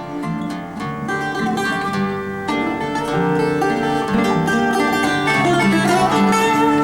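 Instrumental music of plucked guitars playing a run of changing notes, growing gradually louder: the introduction to a fado song.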